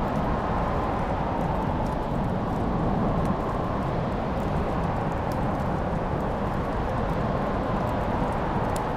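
Wood fire burning in a fireplace: a steady low rush of flames with a few sharp crackles and pops scattered through.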